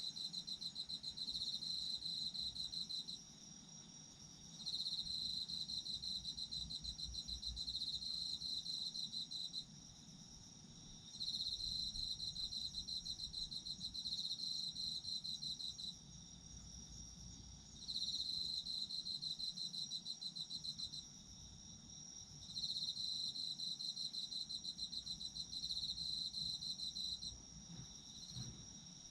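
Autumn insects calling. One keeps up a steady, unbroken high trill; another gives a rapid pulsing trill in bouts of a few seconds, broken by pauses of a second or two.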